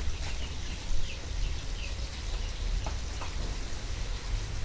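Small birds chirping in short, falling notes over a steady hiss and a low rumble.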